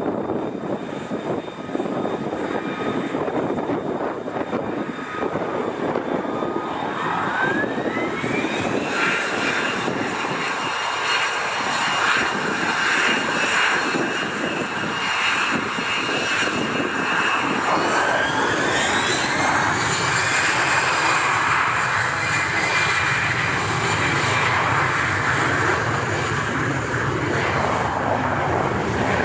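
Lockheed Martin F-35B's jet engine spooling up for a short takeoff: a steady jet noise whose whine rises in pitch in two steps, about a quarter of the way in and again past halfway, then holds at high power.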